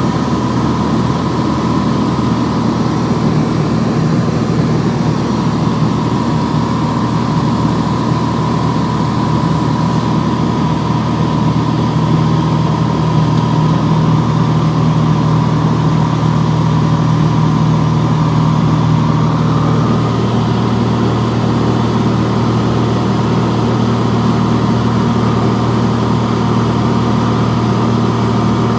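Piper PA-24 Comanche's piston engine and propeller droning steadily, heard from inside the cabin; about two-thirds of the way through, the drone steps down to a lower pitch.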